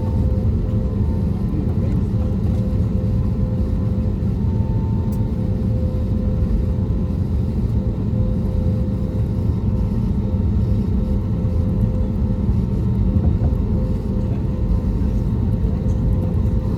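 Steady low rumble and hum inside the economy cabin of an Airbus A320neo, its two CFM LEAP-1A26 engines running, with a faint steady tone over the rumble.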